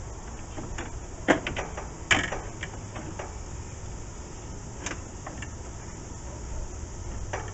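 A few sharp knocks and clicks, with a short scrape about two seconds in, from the window glass and its metal track guides being worked into place inside a 1967 VW Beetle door.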